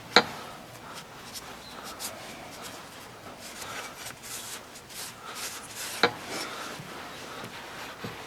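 Quiet handling of engine parts and tools on a workbench, faint rubbing and ticking, with two sharp knocks, one just after the start and one about six seconds in.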